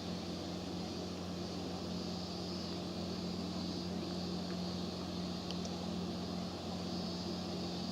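Engine of a small passenger ferry running steadily, a constant low drone with an even hiss of water and wind over it.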